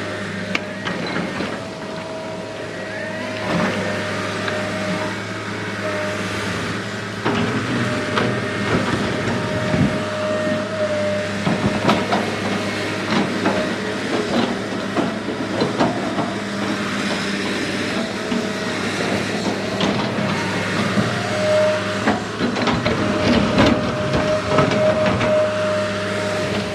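Small electric motors of RC construction machines running with a steady hum and an on-and-off whine, over scattered clicks, knocks and scraping as they work dirt and gravel.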